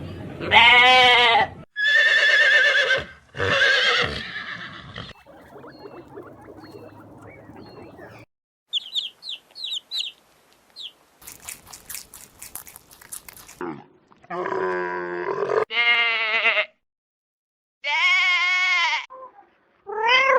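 A sequence of separate animal calls: three loud bleats in the first five seconds, then a run of short high chirps, a fast clattering about halfway through, and more drawn-out calls near the end.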